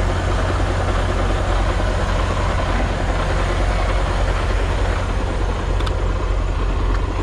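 Semi truck's diesel engine idling steadily with a deep, even rumble.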